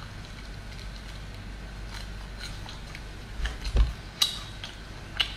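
Gnawing and chewing on a duck neck: scattered crunchy clicks and cracks of meat and bone, with a dull thump and then the loudest crack a little before four seconds in.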